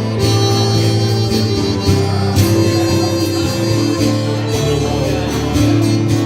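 Instrumental break of a folk song: acoustic guitar strumming under a harmonica playing long held melody notes.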